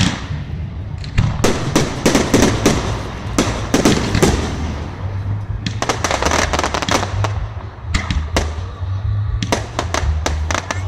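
Fireworks going off in a rapid string: a loud bang at the start, then many bangs and crackles, over steady low-pitched music.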